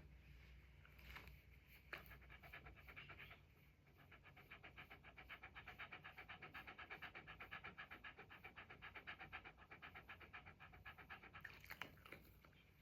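Faint, quick, even panting of a red Shiba Inu, starting about four seconds in and stopping near the end. A few soft rustles or clicks come before it.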